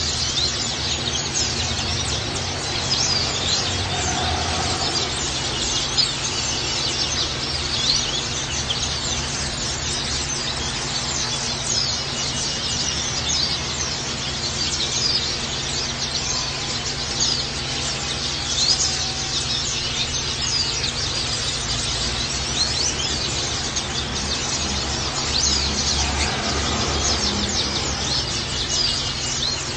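Pleci (white-eyes) twittering continuously in dense, fast, high chirps over a steady background hiss.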